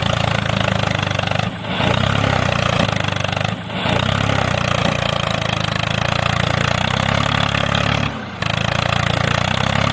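Small engine of a DIY mini tractor running steadily, briefly dropping out three times.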